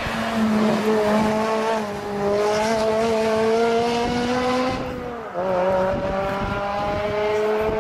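FD2 Honda Civic's four-cylinder engine at high revs through an aftermarket sports exhaust, its pitch climbing steadily under acceleration. About five seconds in the note drops briefly, as with an upshift, then climbs again.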